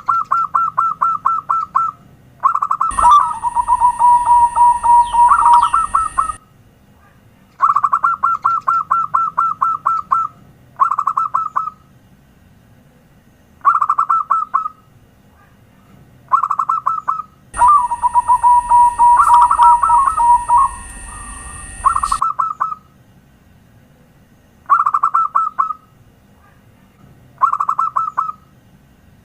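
Zebra doves (perkutut) cooing: phrases of rapid staccato notes, each a second or two long, repeated with short pauses. About three seconds in and again around seventeen seconds in, longer overlapping songs come in, joined by a steady high hiss.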